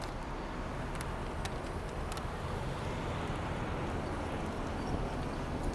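Outdoor city ambience: a steady hum of traffic with a few faint clicks.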